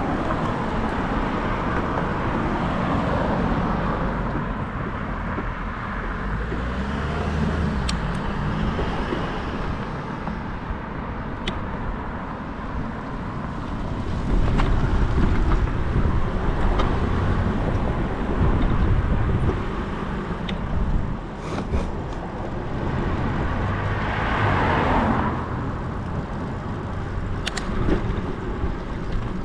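Riding noise from a bicycle-mounted camera: a steady rumble of tyres on the path and wind rushing over the microphone, with a few sharp clicks and a louder swell of noise about five seconds before the end.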